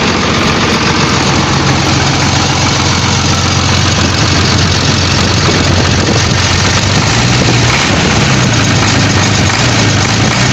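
Bedford truck engine, freshly fitted after its old one broke its crankshaft, running steadily at idle.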